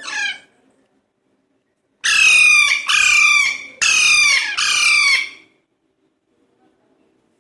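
Young Alexandrine parakeets squawking: a short call at the start, then four loud, harsh squawks in quick succession, each falling in pitch.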